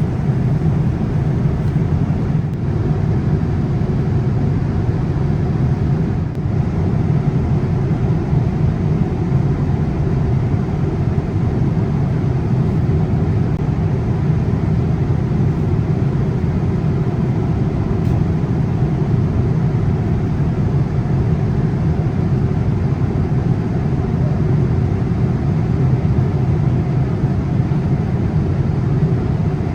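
Steady roar of Boeing 787-8 cabin noise in cruise, a deep, even rush of airflow and engine noise.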